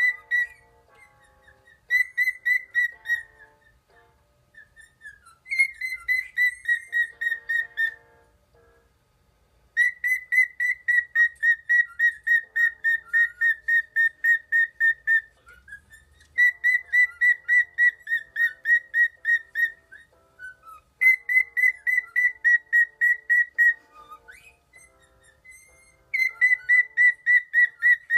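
Cockatiel whistling a fast run of short, high notes at one pitch, about four a second, in bursts of several seconds with short pauses between them.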